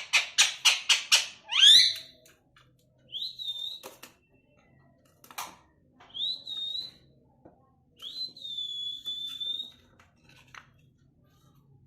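Pet parrot calling: a quick run of about six harsh chirps, a rising whistle, then a series of clear, high, steady whistles, the longest held about a second and a half, with a few small clicks between.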